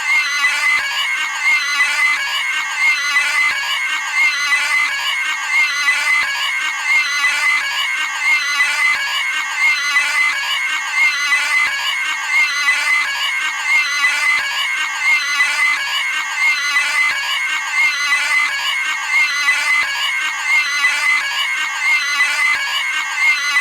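Cartoon pig screaming sound effect, the same high squealing scream looped over and over without a break.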